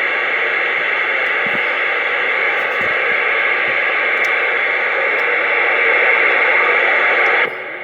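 CB radio receiver hissing with loud, steady static, as when a station keys up without speaking or the band noise opens the squelch. The static cuts off suddenly near the end.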